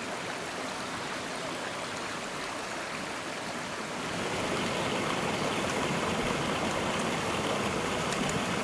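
Mountain stream rushing over rocks, a steady noise of running water that grows louder about four seconds in.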